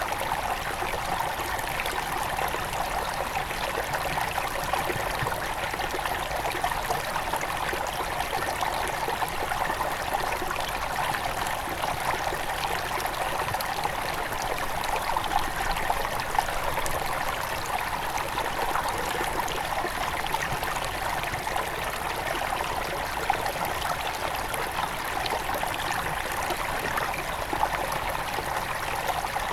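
Headwater stream of a forest river flowing steadily, a constant rushing and trickling of water.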